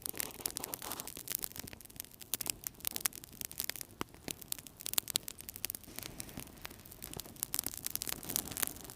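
Wood fire burning in a fireplace, crackling with many irregular sharp pops and snaps over a soft, steady rush of flames.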